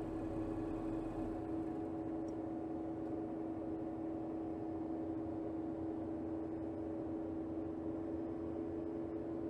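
Mercedes GLS 450's 3.0-litre turbocharged inline-six with EQ Boost mild hybrid, heard from under the bonnet, running steadily at low revs in city driving. It gives an even hum with one steady pitch that neither rises nor falls.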